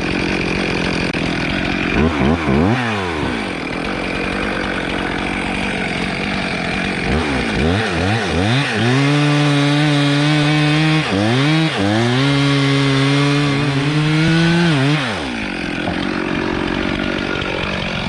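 Chainsaw idling, blipped a couple of times about two seconds in, then revved up several times and held at high revs for about six seconds while cutting wood, with one short dip partway, before dropping back to idle.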